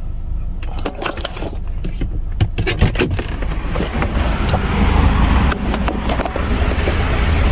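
Chevrolet Traverse engine idling, freshly refilled with new oil, with a steady low hum that grows louder about three seconds in. Scattered clicks and knocks of handling sound over it.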